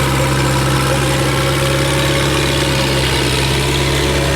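Diesel engine of a large river barge running steadily under power: a loud, even hum with a strong low tone that does not change.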